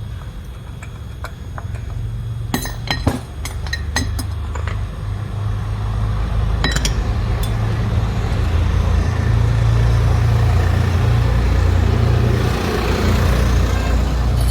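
A vehicle engine's low, steady rumble, with a run of sharp metallic clinks a few seconds in and another about halfway through. The rumble grows louder in the second half.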